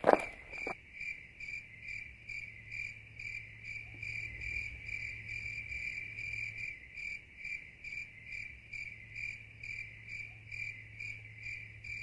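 Crickets chirping in a steady, even rhythm of about three chirps a second, over a low hum. A few thuds come in the first second, the loudest right at the start.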